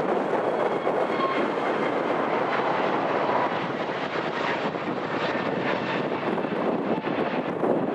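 Jet airliner engines running, a steady rumble with a faint high whine in the first few seconds, mixed with heavy wind buffeting on the microphone.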